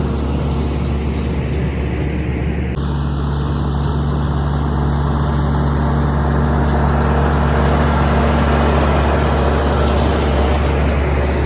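Tractor engine running steadily under load, its sound changing abruptly about three seconds in.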